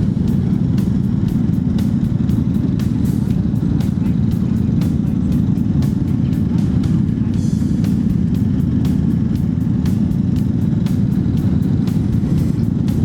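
Honda CB1100 air-cooled inline-four running at a steady cruise, a constant low drone with many short crackles on top.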